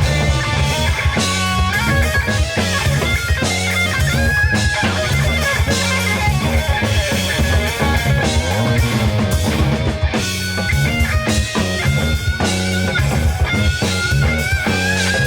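A live rock band playing an instrumental passage: electric guitar carrying a melodic line over bass guitar and drum kit. The guitar line slides upward near the end.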